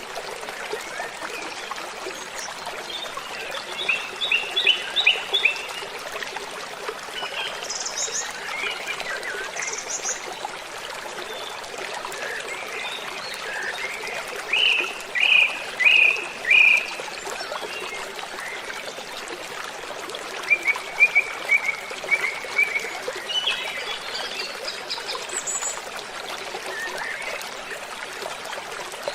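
Waterfall running steadily, a constant rush of falling water, with birds singing over it in short phrases of repeated notes. The loudest phrase is a run of four or five strong notes about halfway through, and a quick trill follows a few seconds later.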